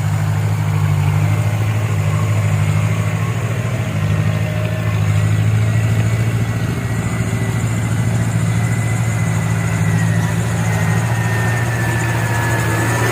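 Diesel truck engine running steadily at low revs, with a faint high whine over its deep hum.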